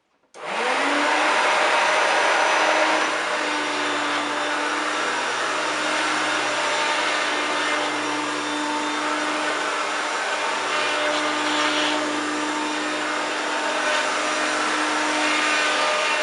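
1993 Hoover Turbopower 1 upright vacuum cleaner switched on: the motor spins up in about a second, then runs steadily with a whirring hum over a loud rush of air.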